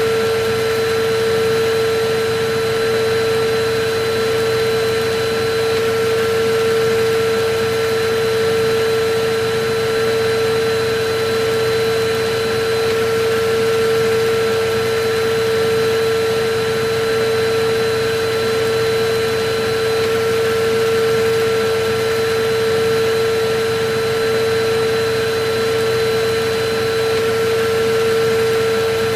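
Electric vacuum cleaner running steadily: a constant rushing noise with a steady motor hum.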